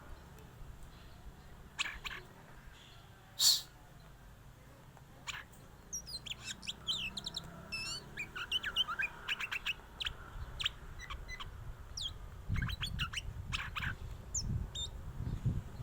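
Oriental magpie-robin singing: a run of quick, varied whistles and chirps that sliding up and down, sparse at first and dense through the second half, with one loud sharp note about three and a half seconds in.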